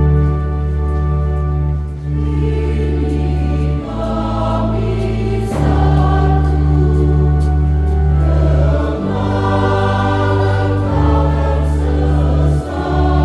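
A church choir singing a hymn in several voices over long held bass notes that change every couple of seconds.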